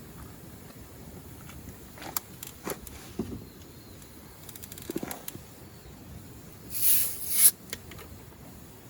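A few light knocks and clicks, then a loud hissing scrape lasting under a second about seven seconds in.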